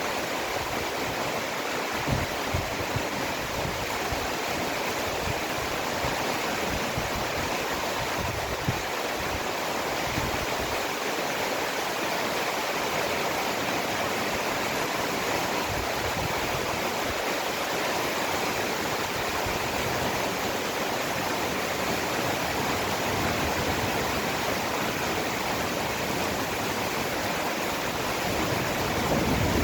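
Heavy downpour: a steady, even rush of rain, with a few short clicks in the first few seconds, growing slightly louder near the end.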